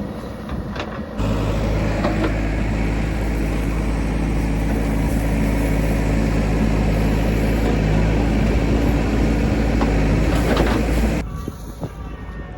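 Heavy diesel engine running steadily, with a deep even hum. It cuts in sharply about a second in and cuts out just over a second before the end.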